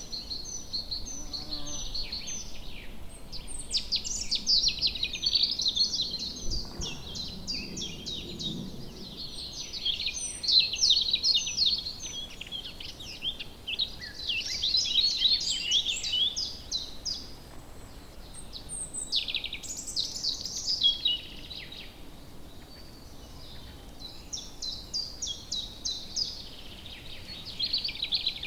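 Several songbirds singing and chirping at once in woodland, a steady chorus of rapid high trills and tweets.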